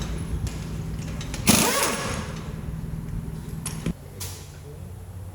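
A vehicle engine idling steadily, with a short louder burst of noise about a second and a half in and a sharp knock about four seconds in.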